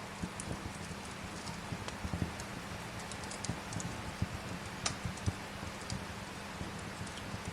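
Wood fire crackling and popping with irregular small snaps and low knocks, over a steady hiss of rain.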